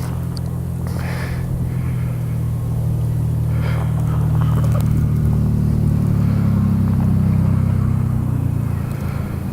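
A heavy diesel engine drones, a low steady hum that grows louder through the middle and eases off near the end.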